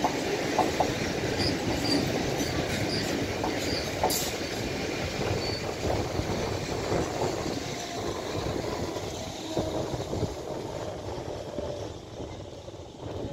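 Electric multiple-unit passenger train passing, its wheels rumbling and clattering over the rails with a faint squeal now and then. The sound fades steadily as the last coach draws away.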